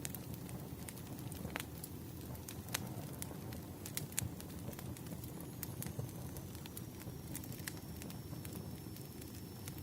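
Wood fire burning: a steady low rush with irregular crackles and sharp pops of the burning logs. A faint thin high whistle joins about halfway through.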